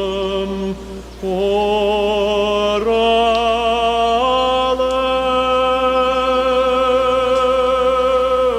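Music: a solo voice sings long held notes with a wavering vibrato. It breaks off briefly about a second in, then steps up in pitch twice, near three and four seconds in, and holds the top note.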